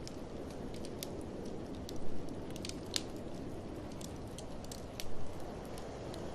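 Wood fire crackling, with scattered sharp pops and clicks, over a steady low rush of blizzard wind. Two louder swells come about two and five seconds in.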